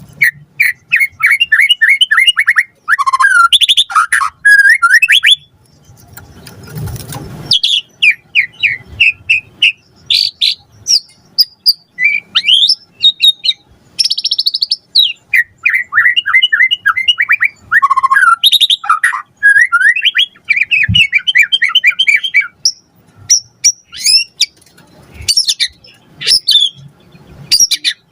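White-rumped shama singing a loud, varied song of fast runs of repeated notes, trills and rising and falling whistles, with short pauses between phrases.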